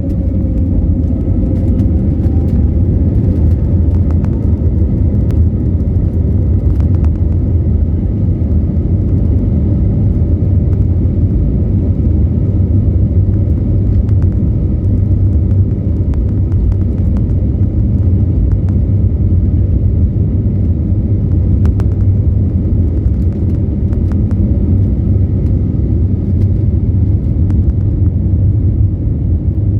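Steady, loud, deep rumble of an Airbus airliner's jet engines and airframe, heard from inside the passenger cabin, with a faint whine rising over the first few seconds and scattered small rattles.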